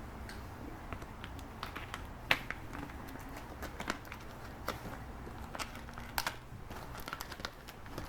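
Scattered light clicks and taps of small parts being handled, over a low steady hum.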